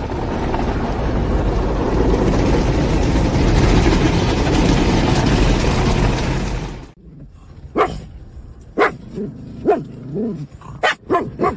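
A loud steady rushing noise that cuts off suddenly about seven seconds in, followed by a dog giving several short barks and yips.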